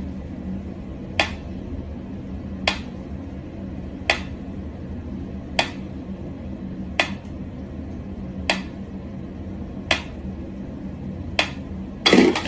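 Mechanical pyramid metronome ticking slowly, one sharp tick about every second and a half. Near the end comes a louder knock.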